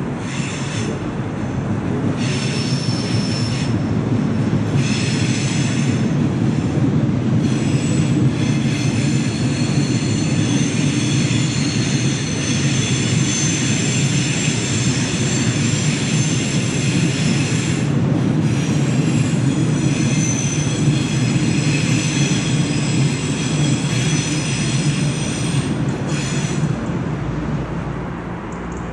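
A train rolling across a stone rail bridge: a steady low rumble with high wheel squeal. The squeal comes and goes over the first several seconds, holds nearly unbroken from about eight seconds in, and dies away near the end as the train passes.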